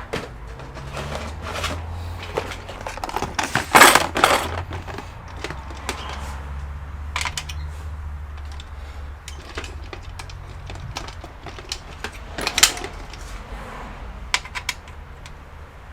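Scattered clicks, taps and rattles of hands and small tools working on a computer's plastic and metal casing during disassembly, with a louder clatter about four seconds in and another sharp one near twelve seconds, over a steady low hum.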